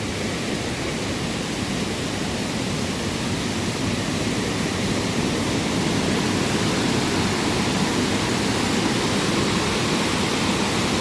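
Waterfall rushing, a dense steady wash of falling water that grows a little louder over the first few seconds and then holds steady.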